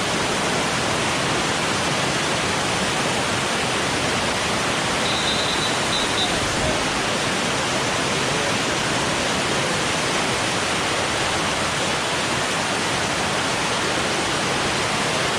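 Steady rush of a waterfall's falling water, an even noise that holds at one level throughout. A brief high tone sounds faintly about five seconds in.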